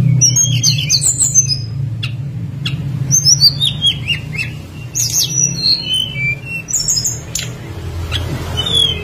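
Tledekan gunung (SRDC jungle flycatcher) singing: quick runs of high chirps and falling whistled notes, with a few sharp clicks, over a steady low hum.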